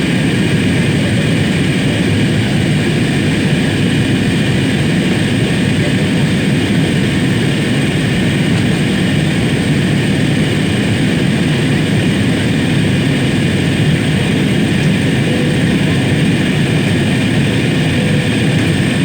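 Steady drone of an airliner's engines and rushing air heard inside the cabin in flight, even and unchanging throughout.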